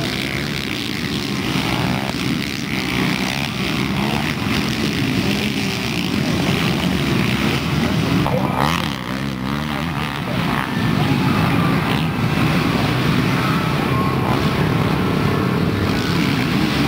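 Motocross dirt bike engines running hard on a dirt track, revving up and down as the bikes accelerate and jump. The sound dips briefly about nine seconds in, with pitch glides as a bike passes.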